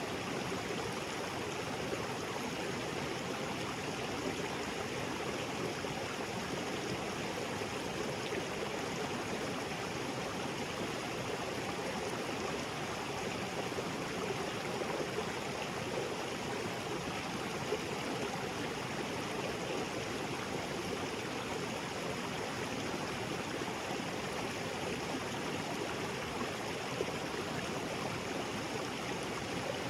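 Small waterfall splashing into a jungle creek, a steady rush of falling and flowing water.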